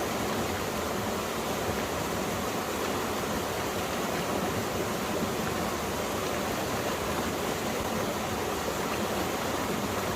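Mountain stream water rushing and splashing over rocks in a steady rush.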